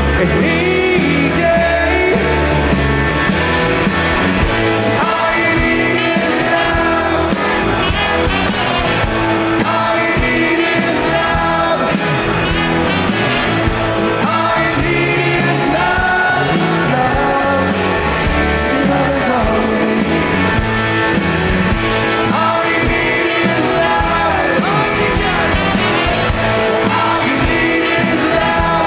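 Live rock band playing at full volume with a sung lead vocal over the instruments.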